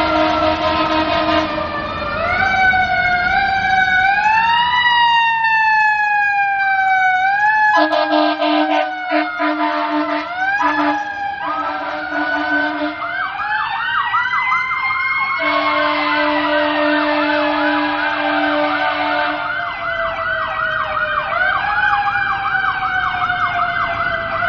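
Seagrave ladder truck responding with its sirens sounding: slow wails that rise and fall, changing to a fast yelp about halfway through. Air horn blasts sound over them several times, the longest near the middle.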